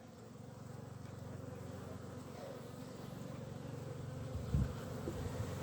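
Honeybees buzzing steadily around an opened hive, a continuous hum of many bees. A single low thump about four and a half seconds in.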